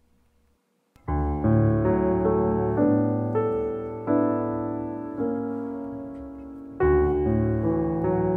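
Background piano music begins about a second in, after near silence. Its notes are struck and left to fade.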